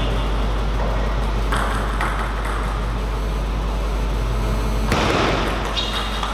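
Table tennis ball striking bats and table: a few sharp pings and knocks over a steady low hall hum.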